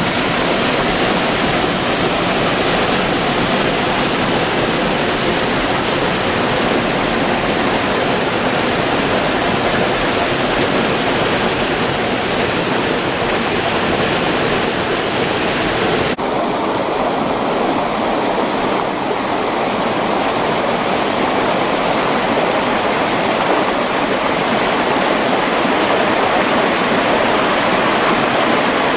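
Creek water rushing and splashing over rocks in a steady, dense flow. About halfway through, the sound changes abruptly to a slightly duller rush.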